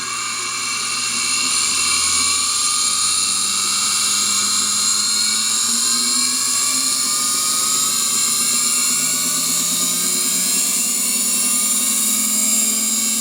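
Stripped VHS erase head spun by a treadmill motor, running at speed with a loud, high whine whose pitch creeps slowly upward as it keeps spinning up.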